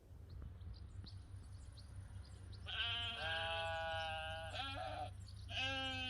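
Farm livestock bleating: two long, drawn-out bleats, the first starting a little under halfway in and the second near the end, over a steady low rumble.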